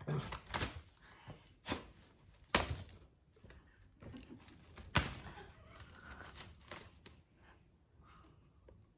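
A transparent plastic barrier crinkling and rustling, with a handful of sharp taps and knocks against it; the two loudest come about two and a half and five seconds in.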